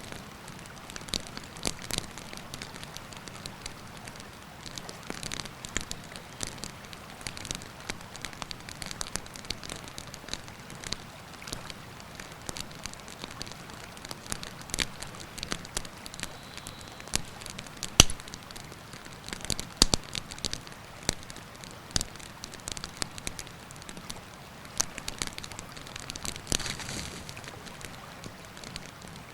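Wood campfire crackling and popping irregularly, with one sharp pop about two-thirds of the way through. Underneath is the steady rush of the river.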